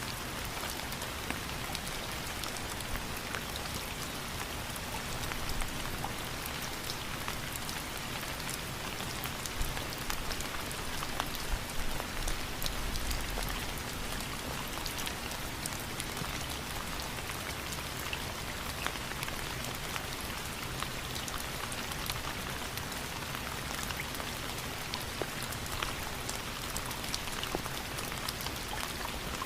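Steady rainfall, an even hiss peppered with many individual drops pattering on a surface.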